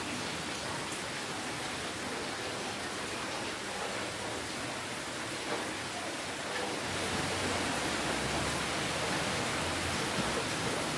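Steady rainfall: an even hiss of many drops without pause. A faint low rumble sits beneath it for a few seconds from about seven seconds in.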